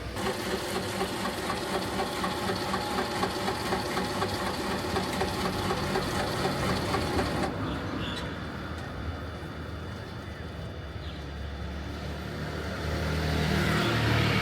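An engine running, with an even pulsing of about three to four beats a second for the first half; the sound turns quieter and smoother about halfway through.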